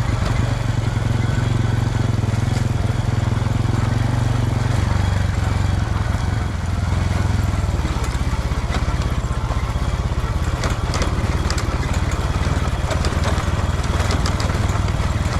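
Small motorcycle engine running steadily under way, its note shifting about five seconds in.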